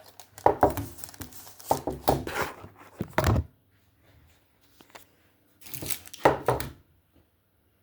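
Kitchen handling noises: several separate thuds and crinkling rustles as the lined cake pans of shortbread dough are picked up and moved toward the oven.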